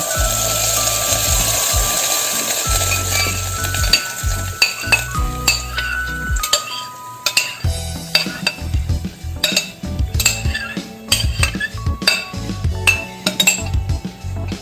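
A utensil stirring, clinking and scraping against a cooking pan in quick irregular clicks, becoming frequent from about a third of the way in, over soft background music.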